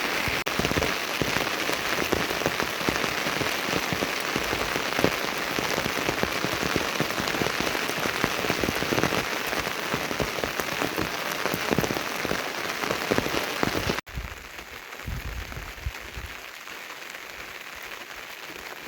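Heavy rain falling steadily, with many close drops spattering on surfaces. About 14 seconds in it cuts suddenly to lighter, quieter rain.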